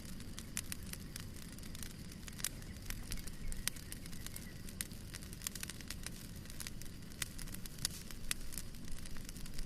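Fire burning in a fireplace, crackling with frequent irregular sharp pops over a steady low rumble of flames.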